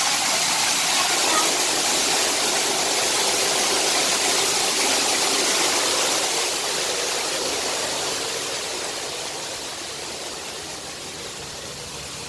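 Steady rush of water falling from a small waterfall, fading over the second half.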